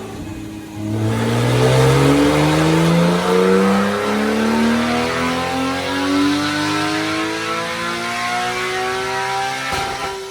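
A car engine accelerating hard, surging about a second in and climbing steadily in pitch, cut off abruptly near the end.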